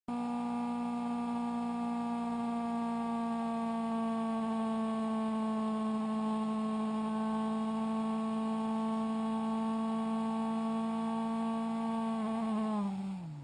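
Motorcycle engine running at high revs at over 160 km/h, a steady high-pitched drone over rushing wind, whose pitch drops sharply near the end as the revs fall.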